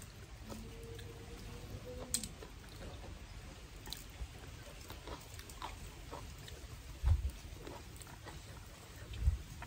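Close-up eating sounds: chewing, with small scattered clicks of blood cockle shells being pried open by hand. Two dull low thumps stand out, about seven and nine seconds in.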